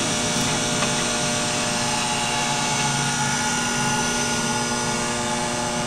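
Reid 618 surface grinder's 1 HP Whitnon direct-drive spindle motor running steadily, an even hum made up of several fixed tones.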